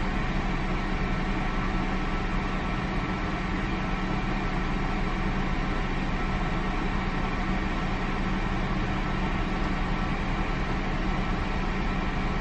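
A car's engine idling, heard from inside the cabin: a steady low hum with an even hiss over it, unchanging throughout.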